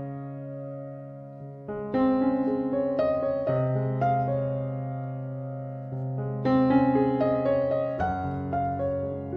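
Background piano music: slow, gentle chords struck every couple of seconds and left to ring and fade.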